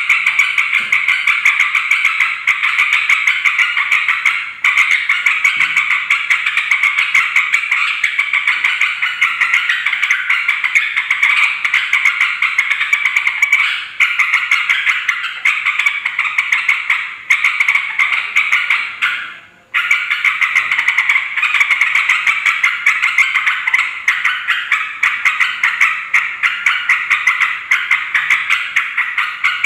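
Yellow-vented bulbuls (trucukan) chattering and calling noisily: a dense, unbroken stream of quick notes that breaks off briefly about two-thirds of the way through.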